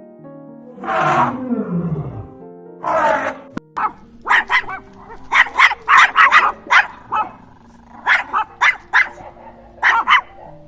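A big cat roaring once, falling in pitch, about a second in, then a long run of short, sharp barks, over background music.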